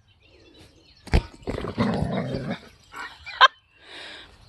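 German Shepherd puppy barking during play, with a sharp thump about a second in and a short, sharp bark near the end.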